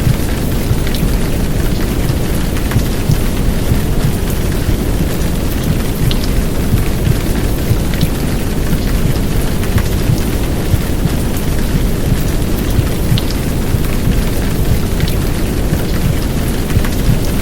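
Heavy downpour rain: a steady rushing noise with scattered drop ticks over a deep, continuous low rumble. It is mixed as a womb-sound recording for settling a crying baby.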